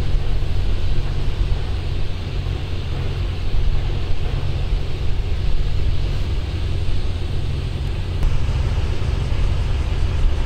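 Wind buffeting the microphone: a loud, unsteady low rumble with a steady hiss over it.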